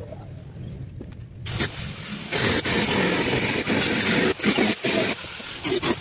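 A car engine starting about a second and a half in, then running loudly.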